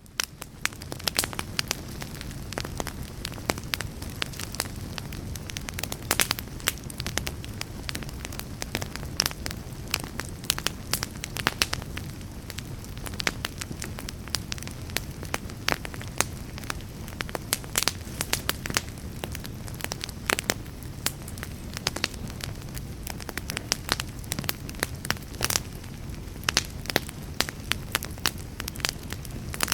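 Wood fire crackling, with frequent sharp irregular pops and snaps over a steady low rumble; it fades in from silence at the start.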